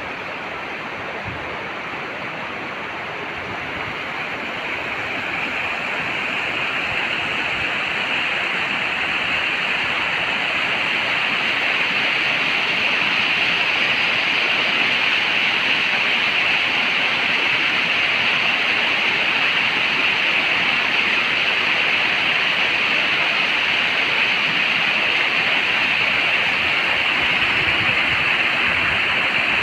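Rushing water of a mountain stream, a steady hiss that grows louder over the first ten seconds or so and then holds level.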